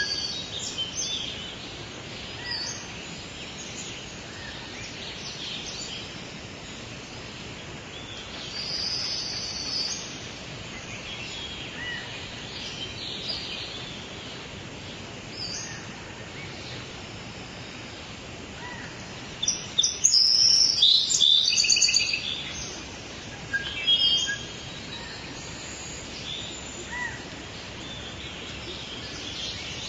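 Birds calling and chirping now and then over a steady background hiss, with a louder run of rapid chirps about two-thirds of the way through.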